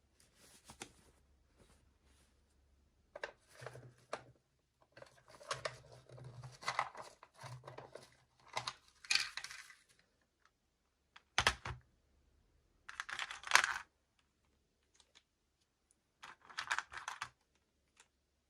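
Small plastic toys and packaging being handled and opened by hand: irregular bursts of clicks, taps and rustling, with one duller knock about eleven and a half seconds in.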